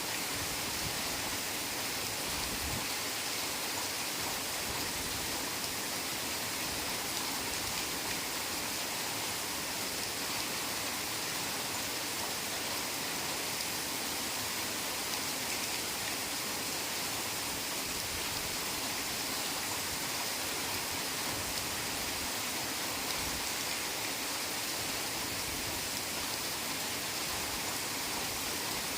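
Heavy rain falling steadily, an even hiss with no distinct drops or thunder.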